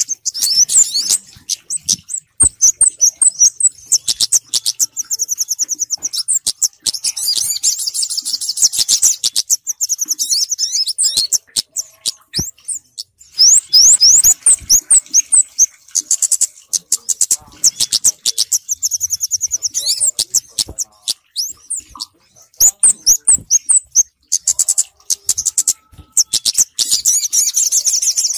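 Bird-lure recording mixing the calls of the kemade and the sogok ontong. Rapid, high chirps and trills come in bursts a few seconds long, with short pauses between them and sharp clicks scattered throughout.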